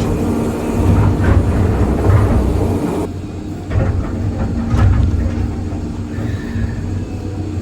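Excavator engine running steadily under load, with several knocks and scrapes of the bucket working broken concrete debris.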